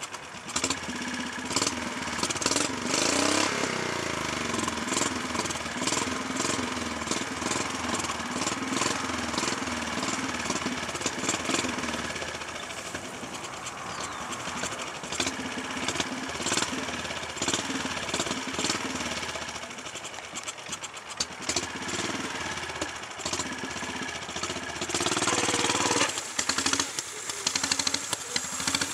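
Riding lawn tractor's small engine running after a stall, its revs rising and falling unevenly, growing louder about 25 seconds in.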